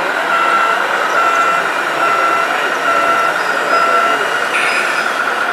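Reversing beeper on a remote-controlled model truck, sounding a single-pitched beep about once a second over a steady background hubbub.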